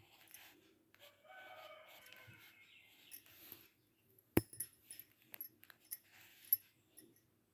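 A pitched animal call about two seconds long, followed a couple of seconds later by one sharp click and then several lighter clicks and taps.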